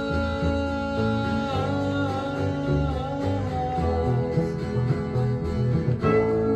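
Country-gospel band music led by acoustic guitar, playing an instrumental break between sung lines, with a melody line that bends in pitch.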